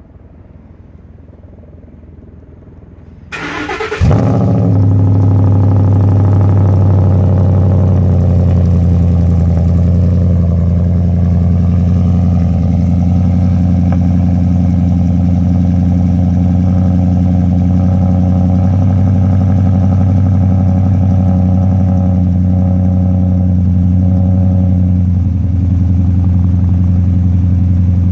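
Supercharged Ford Raptor V8 with Borla headers and Magnaflow exhaust cold-starting: the starter cranks briefly about three seconds in, the engine catches and settles into a loud, steady cold idle.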